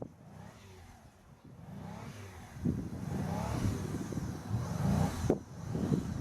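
Car engine revving as the car tries to drive out of deep snow, quieter at first and building up about two and a half seconds in.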